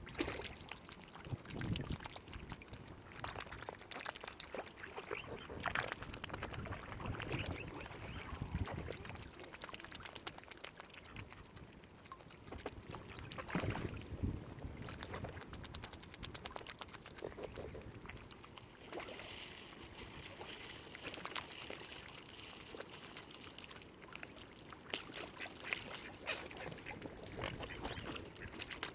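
Ducks quacking now and then among other waterfowl calls, in short separate calls.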